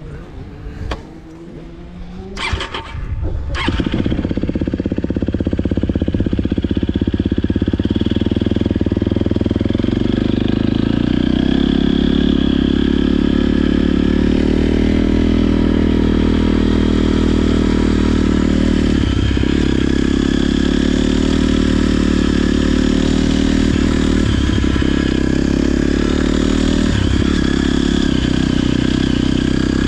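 Motocross bike engine: a few knocks, then about four seconds in the engine comes in loud and runs steadily on the throttle, with brief dips now and then.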